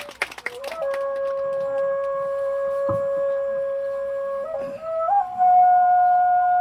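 A flute playing slow, long-held notes: one low note held for about four seconds, then a short bend up into a higher note that is held to the end.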